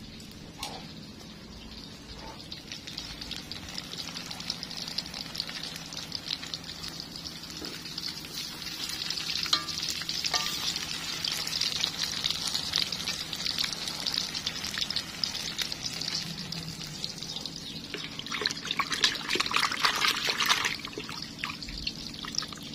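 Battered food deep-frying in hot oil in a wok: a steady crackling sizzle that swells from a few seconds in and is loudest for a couple of seconds near the end.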